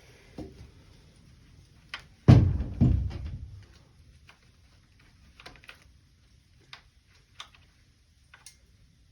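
Two heavy thumps a little over two seconds in, followed by scattered light metallic clicks and taps, from hands and a tool working an exhaust spring onto the dirt bike's expansion chamber.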